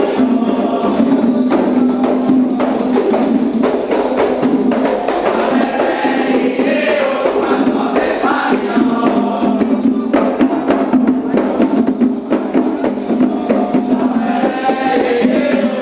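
Candomblé ritual chant: a group singing together over steady, rapid percussion.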